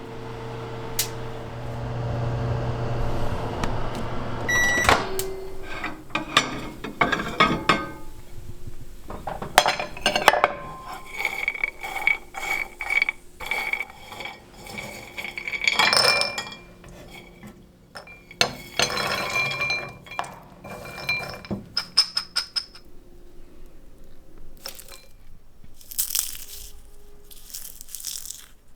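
Microwave oven running with a steady hum, which stops about five seconds in. After that come irregular clicks, clinks and clattering of roasted nuts on a plate being handled and stirred, with a few rattling shakes near the end.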